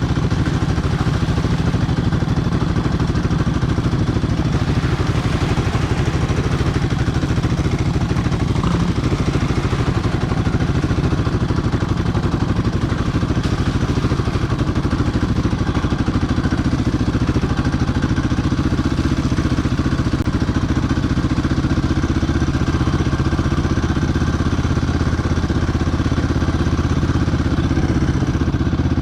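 Sport quad's single-cylinder engine running at a steady speed, with no clear revving.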